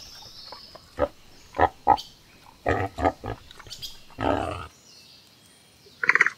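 Wild boar grunting while feeding: a run of short, separate grunts, with a longer grunt a little after four seconds in.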